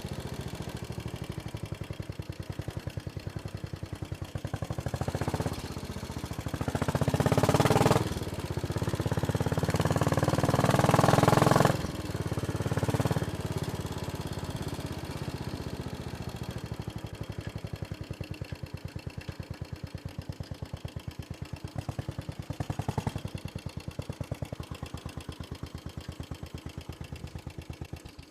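Royal Enfield Bullet 500's single-cylinder engine thumping steadily. It pulls harder twice, louder each time, for a few seconds at a stretch, then settles back to a gentler beat and cuts off at the very end.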